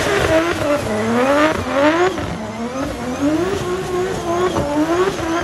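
Drift car engine revving in about six quick rising surges, the throttle worked on and off as the car slides through a wet corner, over a steady hiss of rain and tyre spray.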